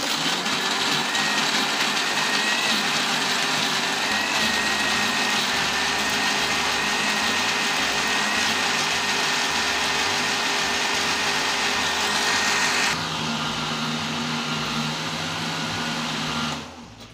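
Electric countertop blender running, grinding a wet spice paste of shallots, garlic, ginger, turmeric, candlenut, galangal and bird's eye chillies with a little cooking oil. It starts abruptly, turns duller and lower about thirteen seconds in, and stops near the end.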